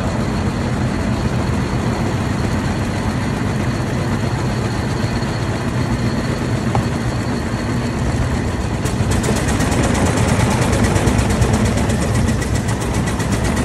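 1903 Cadillac's single-cylinder engine running steadily at idle in stopped traffic. About nine seconds in, as the car moves off, it grows a little louder and a fast, even ticking joins in.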